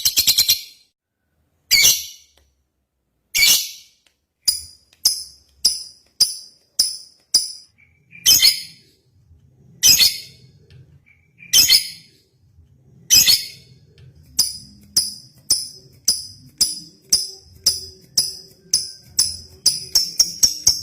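Lovebird calling in shrill, high-pitched chirps: a few longer calls a second or two apart, between runs of short sharp chirps at about two a second that quicken near the end.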